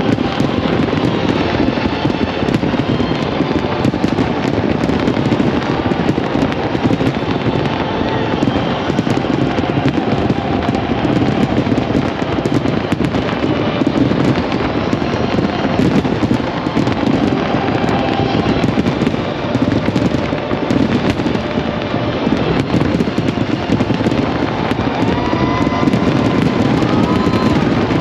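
A dense, continuous fireworks barrage: countless overlapping bursts and crackles blur into one steady, loud crackling din. A few faint gliding tones come through near the end.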